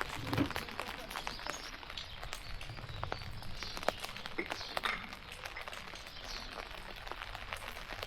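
Outdoor background noise with many scattered light clicks and taps, no steady rhythm.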